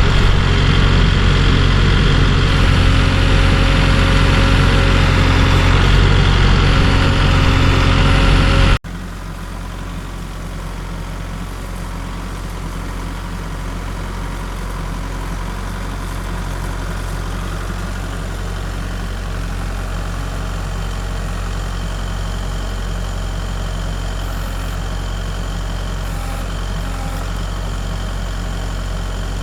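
A heavy engine running steadily, loud at first; a little under nine seconds in it cuts abruptly to a quieter, steady engine hum.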